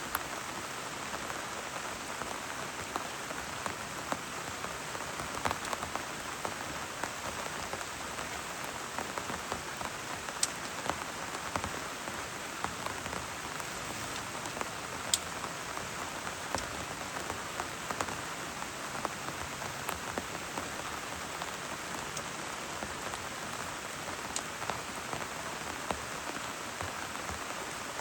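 Steady rain falling: a dense, even hiss with many scattered sharp ticks of single drops landing, a few of them louder.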